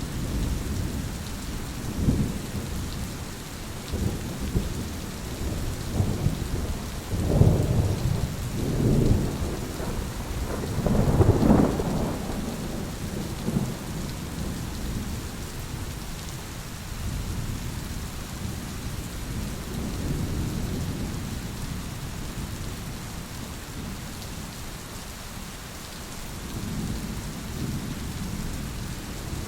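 Thunderstorm: steady rain with rolling thunder, the rumble building to its loudest in the middle and fading to a softer roll near the end.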